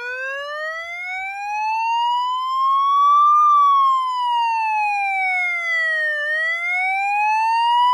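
Electronic police-siren wail: a slow rise in pitch for about three seconds, a fall for about three, then rising again near the end.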